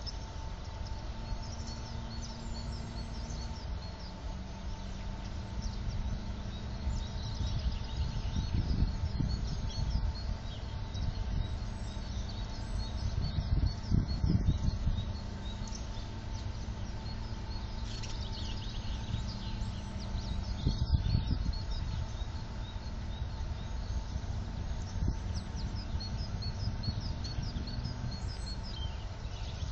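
Small songbirds chirping and twittering in quick, repeated short calls, over a low rumbling noise that swells several times.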